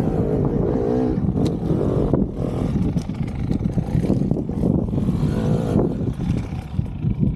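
Enduro dirt bike engine running and revving up and down over rough ground, its pitch wavering, with a steady rumble underneath.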